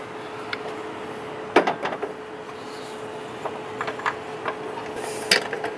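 Scattered light clicks and knocks of tools and car parts being handled, the loudest about a second and a half in, over a steady faint hum.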